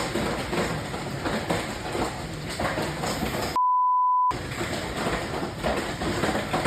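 A single steady beep of under a second, a little after three and a half seconds in, replacing all other sound while it plays: a censor bleep masking a word. Around it is a rough, noisy background.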